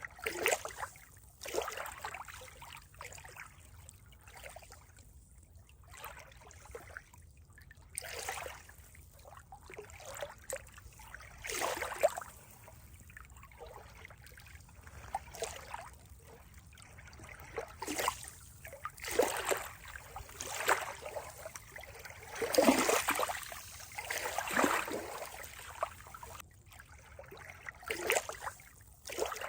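Running water trickling and splashing in uneven surges every second or two, with a louder spell a little past the middle.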